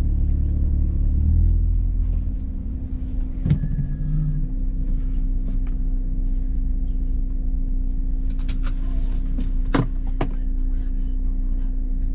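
Car engine running at low speed with a steady low rumble, heavier for the first two seconds and then settling. A few sharp clicks and knocks come through about three and a half seconds in and again around nine to ten seconds in.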